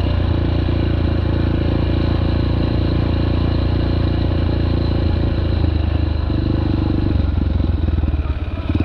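Dirt bike engine running under steady throttle while riding, easing off briefly near the end.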